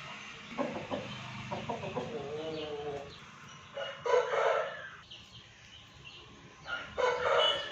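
Aseel chickens calling, with a rooster crowing. There is a longer stretch of calls early on, then two louder short calls, about four and seven seconds in.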